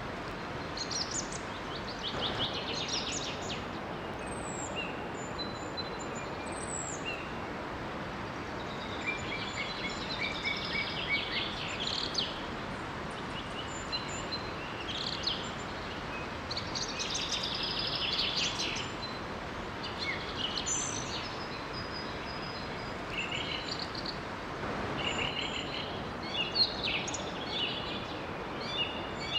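Several birds singing and chirping in short, high, repeated phrases over the steady rush of a small waterfall.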